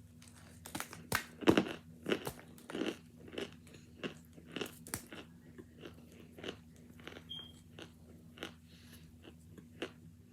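Close-up crunching and chewing of hard, frozen chunks of boiled cornstarch. The loudest bites come in the first few seconds, then the chewing goes on in softer, irregular crunches. A steady low hum runs underneath.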